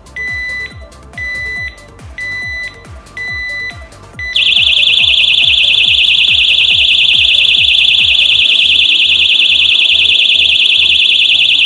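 Motorcycle U-lock's built-in alarm set off by the lock being disturbed: four warning beeps about a second apart, then about four seconds in a loud continuous high-pitched alarm, rated at 120 decibels, that keeps sounding.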